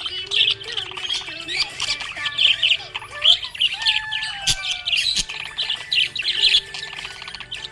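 Small pet parrots chirping and chattering rapidly, many short calls overlapping, with a couple of longer whistled notes sliding down in pitch about four seconds in.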